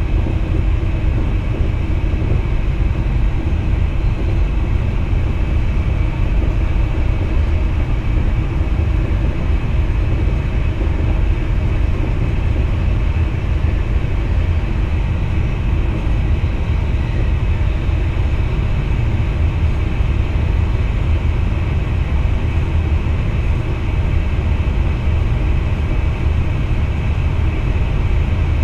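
Steady running noise inside the driver's cab of an NS VIRM double-deck electric train: a deep continuous rumble of wheels on rail, with faint steady tones above it.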